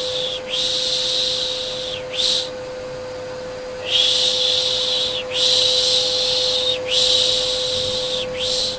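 Repeated long 'shhh' shushing sounds for soothing a baby, each lasting about a second and a half, with a longer pause about two seconds in, over a steady low hum.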